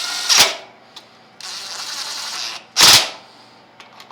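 Hand tools and metal hardware being handled while the handlebar clamp bolts are worked down: sharp clacks near the start and a loud knock about three seconds in, with about a second of rattling noise between them.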